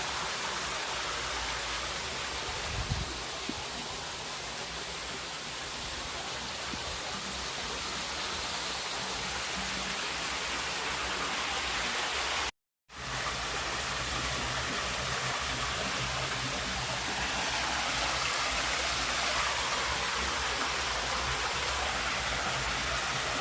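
Waterfall rushing in a steady, even roar of falling water. It cuts out completely for a moment about halfway, then resumes.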